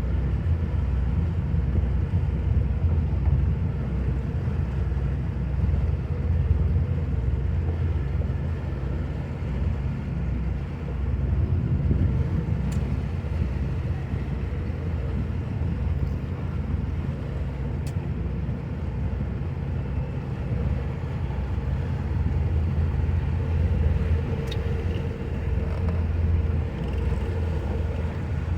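A motorboat engine runs steadily at an even speed: a constant low drone with no pauses, revving or speech.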